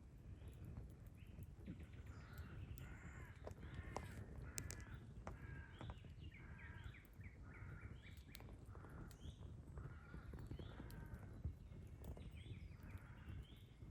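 Campfire crackling with scattered sharp pops, under a run of short, harsh bird calls repeated many times over. Faint throughout.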